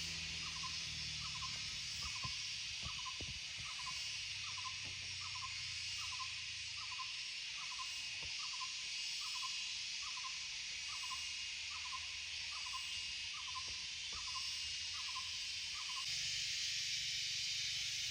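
Tropical forest ambience with a steady high insect drone. Over it, a short, slightly rising call repeats evenly a little under twice a second and stops near the end.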